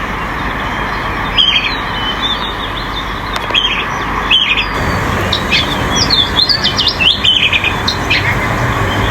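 Small birds chirping in short, sharp notes, scattered at first and coming more often from about halfway through, over steady background noise.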